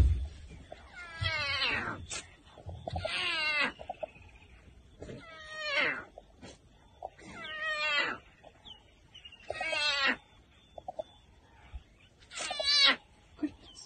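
A thump right at the start, then a cat meowing over and over: six drawn-out, wavering calls about two seconds apart.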